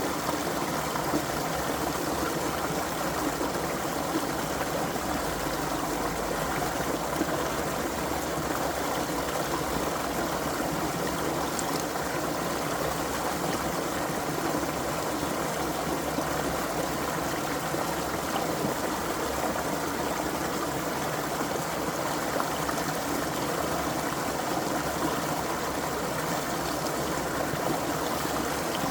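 A creek flowing and babbling over stones, a steady, even rush of water.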